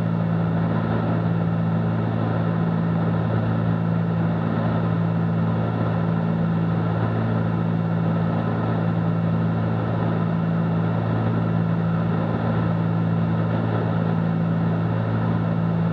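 Steady drone of a Cessna 310Q's twin piston engines and propellers in flight, an even hum with no change in pitch.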